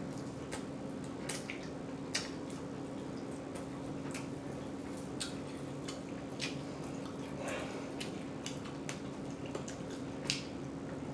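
Wet mouth smacking and chewing while eating chicken wings: irregular moist clicks, the sharpest about two seconds in and again near the end, over a steady low hum.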